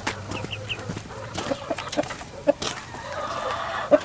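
Domestic hens clucking, with three quick high notes about half a second in and a few sharp knocks.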